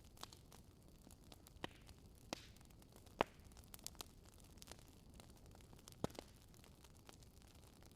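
Wood fire in a fireplace crackling faintly: scattered sharp pops over a low steady hiss, the loudest pop a little past three seconds in and another about six seconds in.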